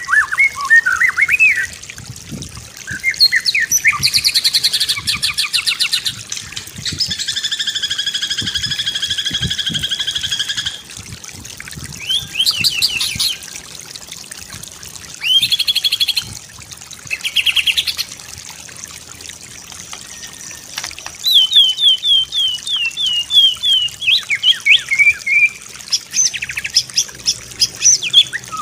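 White-rumped shama (murai batu) singing a varied song of quick whistled notes, rapid trills and a long buzzy phrase, broken by short pauses.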